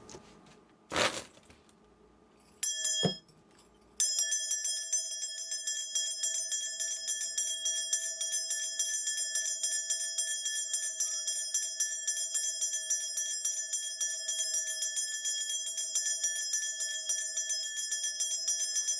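A shaman's cluster of ritual bells shaken rapidly and without a break, a continuous jingling ring that starts about four seconds in. Before it there is a brief knock and a short ring.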